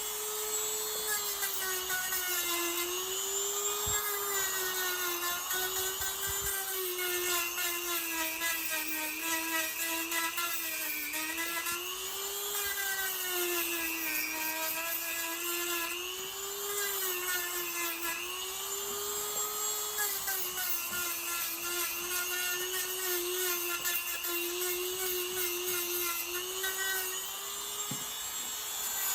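Podiatry electric file (rotary drill with a sanding burr) whining steadily while smoothing callused skin on the sole of a foot. Its pitch wavers slightly up and down as it works.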